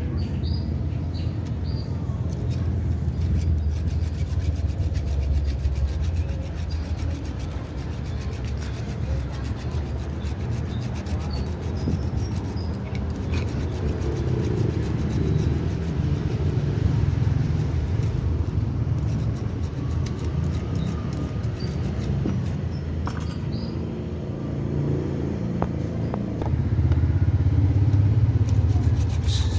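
A steady low rumble, like a running engine or passing traffic, with scattered light clicks and scrapes; it grows a little louder near the end.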